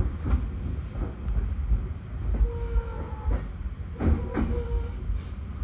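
JR 211 series electric train running slowly, heard from the driver's cab: a steady low rumble with repeated wheel clicks over rail joints. Two short squeals come around the middle.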